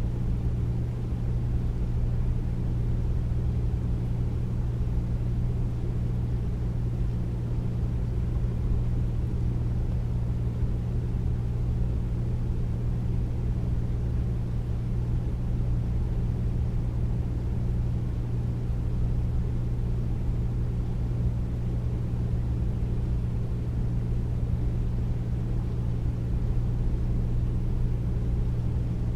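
Air conditioner running steadily: a deep, even hum with a low rushing of air.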